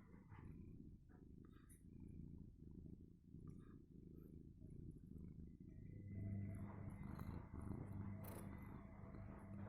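Scottish-breed house cat purring close by, a faint, steady low rumble. A steady low hum joins it about six seconds in.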